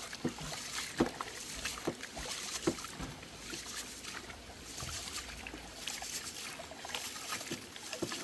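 Rice being washed by hand: water sloshing as the grains are swished around in the washing water, with irregular light knocks and clicks.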